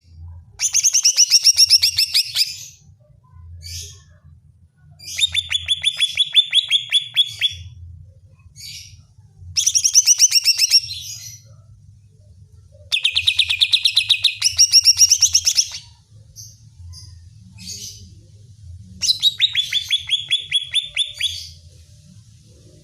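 Green leafbird (cucak ijo) singing in five loud bouts of fast, rapidly repeated notes, each about two seconds long, with short single calls between the bouts. A faint low hum runs underneath.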